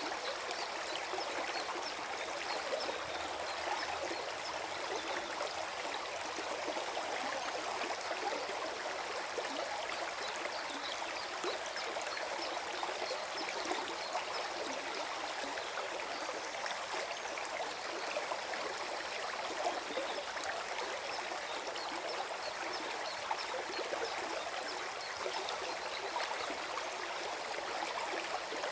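Small forest stream flowing and gurgling over stones, a steady babble of water.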